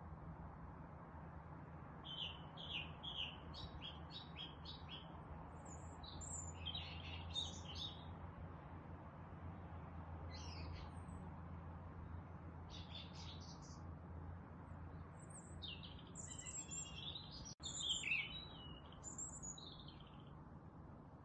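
Several songbirds chirping and trilling in short, scattered phrases over a steady low hum and faint hiss. The sound drops out for a moment about three-quarters of the way through, and the busiest, loudest calling follows.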